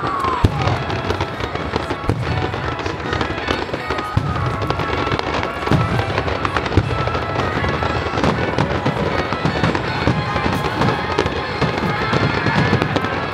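Fireworks display with aerial shells bursting in quick succession: a dense, unbroken run of booms and crackling. Music plays alongside.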